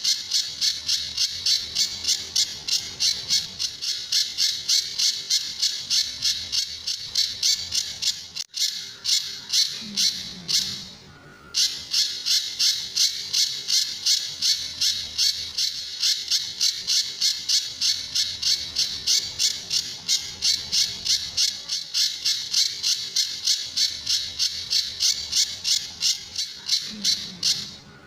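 Pijantur songbird calling in a fast, even series of sharp, high notes, about four or five a second, the 'tembakan' (shot) call used as a masteran for training other songbirds. The run breaks off briefly about a third of the way in, then resumes.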